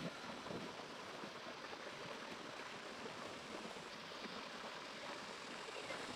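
Steady rushing of flowing water, an even noise with no distinct events.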